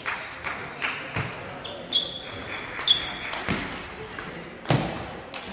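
Table tennis rally: the ball clicking sharply off rackets and table roughly every half second to second, with short shoe squeaks on the floor twice in the middle.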